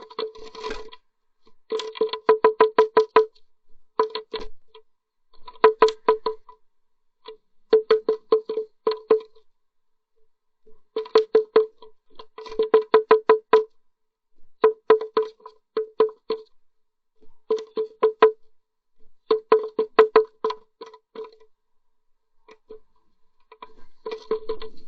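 Bursts of rapid tapping, each burst about a second long with several taps, repeating every second or two. Every tap rings at the same steady pitch.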